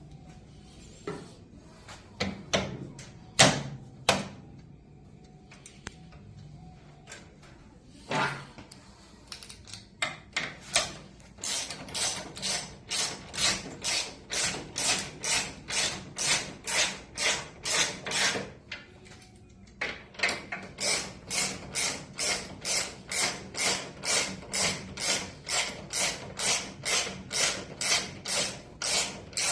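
Hand ratchet wrench worked in steady strokes about two a second, each swing a short rasping burst of clicks, with a brief pause partway through, during rear shock installation on a Harley-Davidson Road Glide. A few separate knocks come first.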